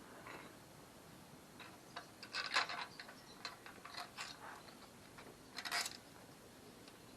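Scattered light clicks and rattles of hard objects being handled, with a short burst of clattering about two and a half seconds in and another near six seconds.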